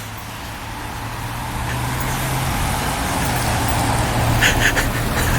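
Street traffic: tyre and engine noise of a vehicle growing steadily louder as it approaches, over a steady low engine hum, with a few short higher-pitched blips about four and a half seconds in.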